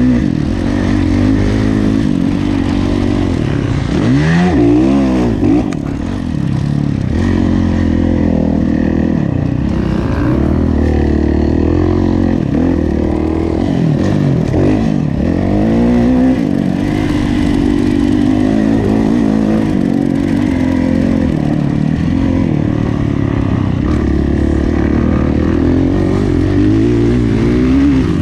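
Kawasaki KX450F motocross bike's four-stroke single-cylinder engine under race throttle, revving up and down in pitch through shifts and corners several times, loud and close.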